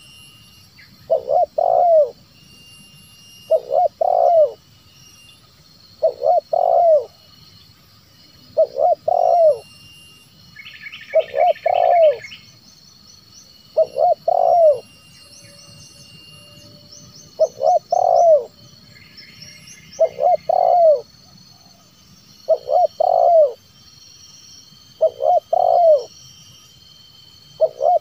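Spotted dove cooing: a stuttering, several-note coo phrase repeated about every two and a half seconds, eleven times. Smaller birds chirp faintly high above it, with a short trill about eleven seconds in.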